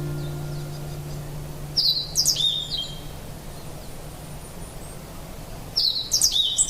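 A songbird singing two short, similar phrases of quick falling notes, about four seconds apart. Soft ambient music fades out during the first two seconds.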